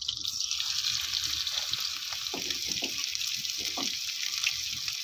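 Chicken fillet pieces sizzling as they fry in hot butter and olive oil in a frying pan. The sizzle swells just after the start as the chicken goes into the pan, then runs on as a steady hiss.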